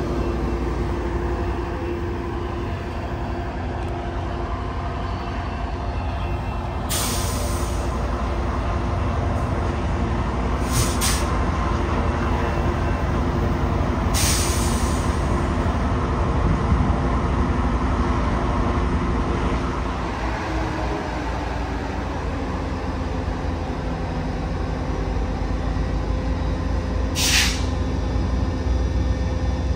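Train running with a diesel locomotive's steady low engine drone and rolling rumble, broken four times by short sharp hisses.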